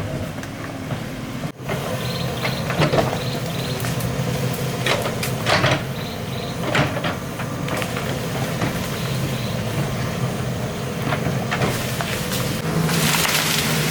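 Excavator's diesel engine running steadily, with scattered knocks and cracks as it works.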